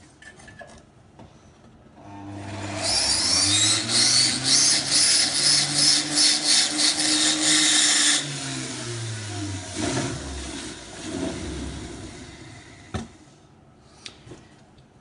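Handheld electric power tool working on metal for about six seconds: the motor tone sags and recovers under load beneath a rough, rapidly pulsing rasp, then winds down. A single sharp knock near the end.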